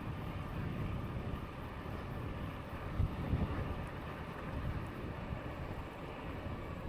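Wind buffeting the microphone over low rumble from a Lankeleisi X2000 e-bike on the move, with a few stronger gusts about three seconds in.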